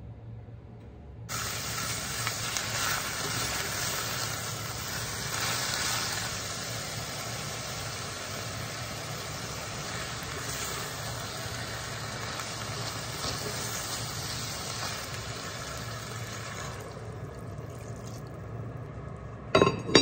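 Sliced pork, mushrooms and onion frying in a hot enamelled cast-iron Staub pot: a loud, steady sizzle that starts suddenly about a second in and dies down near the end. A sharp clank just before the end as the heavy cast-iron lid is set on the pot.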